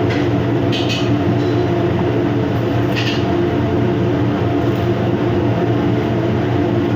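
Steady low mechanical rumble with a continuous hum, and two short light clinks about one and three seconds in.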